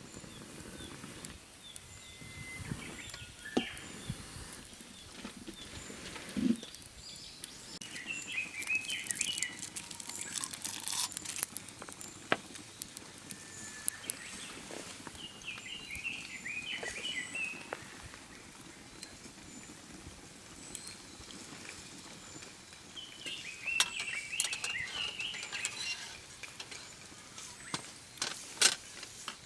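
A bird singing short chirping phrases three times, over scattered snaps and clicks of a wood campfire crackling.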